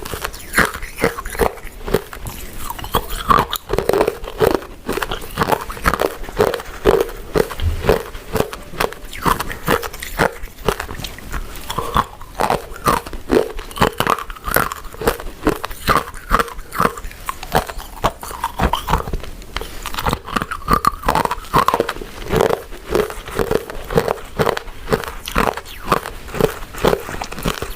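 Close-miked chewing of soft, chewy glutinous rice desserts such as rice cakes and mochi, a steady run of short mouth and chewing sounds without pause.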